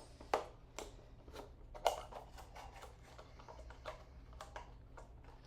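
Scattered light clicks and knocks of small objects being handled, the loudest about two seconds in, over a low steady hum.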